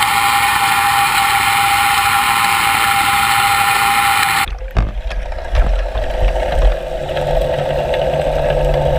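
LP Stingray net cleaner running underwater against a fouled predator net: a steady mechanical whine with many tones, which cuts off suddenly about four and a half seconds in. After that comes low rumbling and irregular thumps with a low hum.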